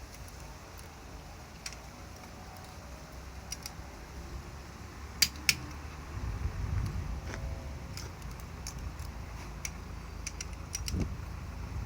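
Scattered light clicks and clinks of tools and parts being handled, with two sharper clicks close together about five seconds in, over a low rumble.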